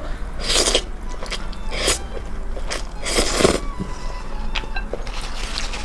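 Close-miked eating sounds: a person biting and chewing food, with three louder noisy bursts about half a second, two seconds and three and a quarter seconds in, and small clicks of chewing between them.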